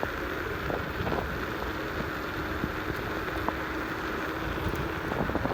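Wind rushing over the microphone and road noise while riding a Qiewa Q1 Hummer electric scooter fast uphill, with a faint steady hum underneath.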